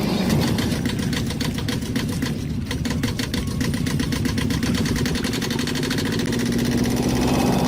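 Small engine running steadily, with a rapid, even knocking pulse.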